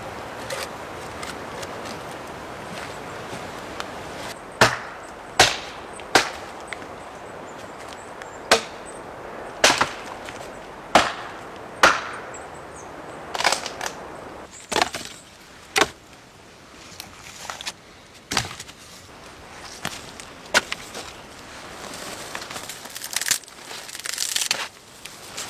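Wood being chopped: a series of sharp blade strikes into wood, about one a second, starting about four seconds in and becoming fewer and softer in the second half.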